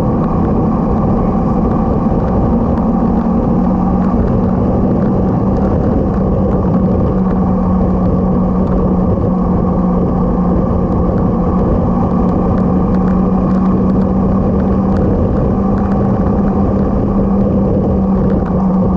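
Motorcycle engine running at a steady speed under loud wind and road noise; the engine note drops slightly about three seconds in, then holds steady.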